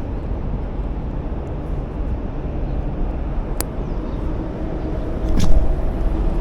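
Steady low rumble of road traffic on the bridge overhead, with a sharp click a little past halfway and a brief louder noise near the end.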